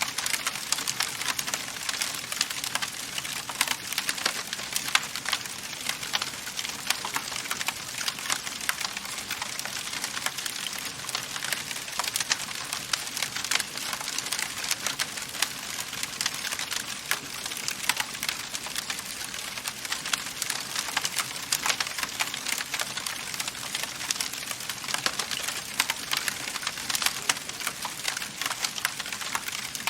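Wood fire crackling in a fireplace: a steady hiss with many small, sharp pops and snaps, several a second.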